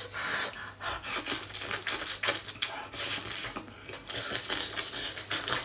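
Close-miked chewing and mouth noises of someone eating bacon-wrapped enoki mushrooms: a fast, uneven run of clicks and short noisy bursts, busiest about four seconds in.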